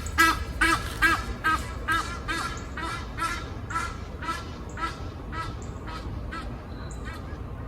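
Duck quacking in a long series of calls that slows and grows quieter.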